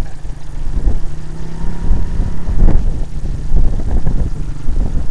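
Honda CRF50 dirt bike's small single-cylinder four-stroke engine running at a steady low speed.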